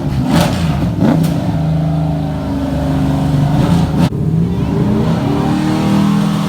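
Car engine revving: held at a steady rev, then climbing in pitch near the end, with one sharp pop about four seconds in.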